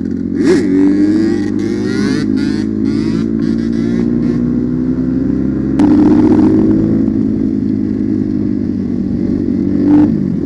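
Enduro dirt-bike engine running under riding load, its pitch rising and falling with the throttle. There is a quick rev about half a second in, and the engine gets louder from about six seconds in. Short knocks and clatter sound over it in the first few seconds.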